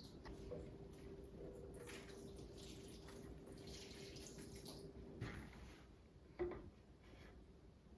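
Faint running water for about three seconds over a low steady hum, followed by a single short click.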